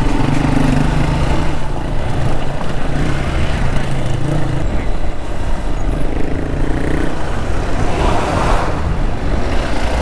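Hero XPulse 200 single-cylinder motorcycle engine running at a steady pace, mixed with wind and road noise on the rider's camera microphone, with a louder surge of noise near the end.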